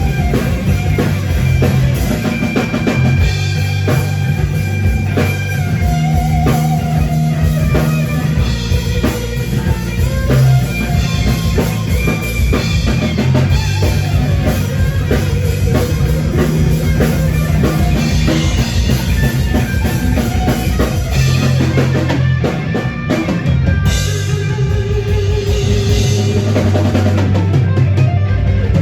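A live rock band playing an instrumental passage: drum kit with dense, steady hits, bass and electric guitar.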